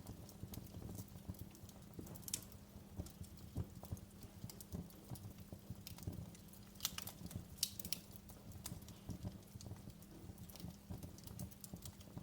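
Wood fire crackling in a fireplace: irregular small pops and snaps over a low rumble, with a few louder snaps about two seconds in and again around seven to eight seconds.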